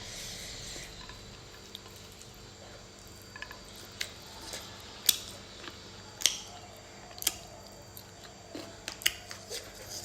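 A person eating fried pork liver close to the microphone: chewing with sharp wet smacks and clicks about once a second from about four seconds in, after a short hiss at the start.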